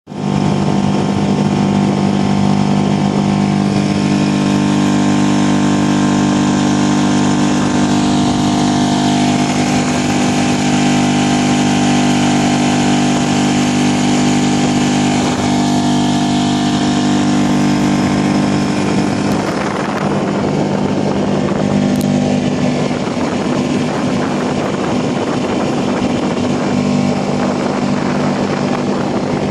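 Hidea 5 hp four-stroke outboard motor running steadily at speed, its even note loosening for a few seconds about twenty seconds in, then steadying again.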